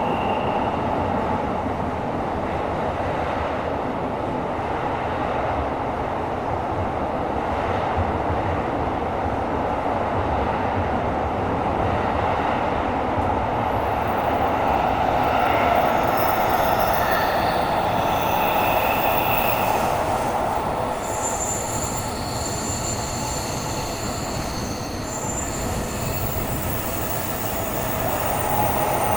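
Tokyo Metro 17000 series subway train running at speed through a tunnel, heard from inside the car: a steady dense rumble of wheels on rail. About halfway through, thin high-pitched wheel squeal joins it and comes and goes.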